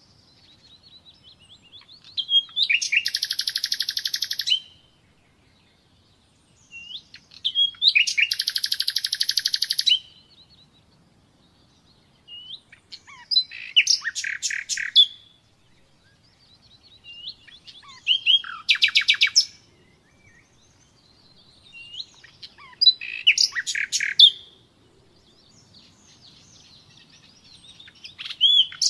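Common nightingale singing: about six separate phrases with short pauses between them. Some phrases are fast rattling trills of rapidly repeated notes; others are whistles and sharp clicking notes.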